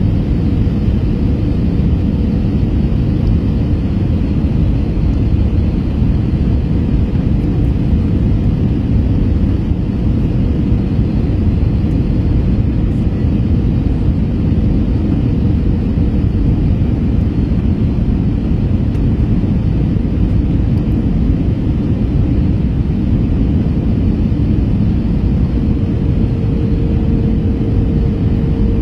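Steady cabin noise inside an Airbus A321 airliner cleared to land: an even low rumble of engines and airflow, with a faint steady hum that fades and comes back near the end.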